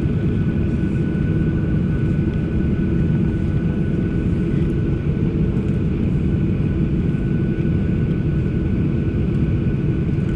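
Boeing 737 jet engines running, heard from inside the passenger cabin: a steady low rumble with a constant high whine over it.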